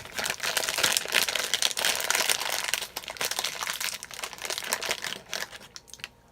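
Bag of pumpkin spice baking chips crinkling and rustling as it is handled, a dense run of crackles that dies away about five and a half seconds in.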